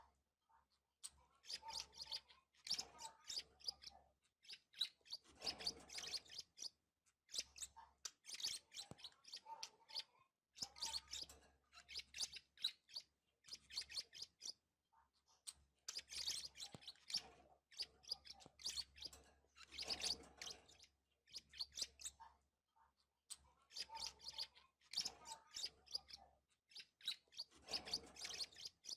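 Budgerigars chirping and chattering in repeated bursts, with short pauses between them.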